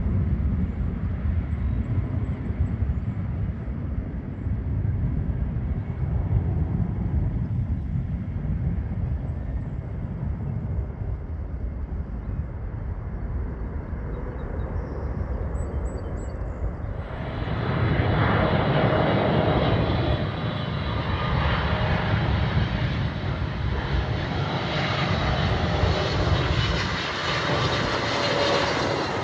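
Low rumble of distant aircraft and airport noise, then a little over halfway through the engine noise of a jet airliner swells in sharply with a steady whine as the plane passes close.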